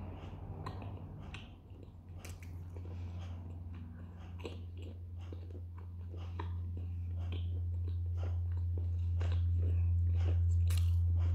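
A person chewing a mouthful of Banja Luka-style pljeskavica in a soft bread bun, with irregular wet mouth clicks and smacks. A steady low hum runs underneath and grows louder from about halfway.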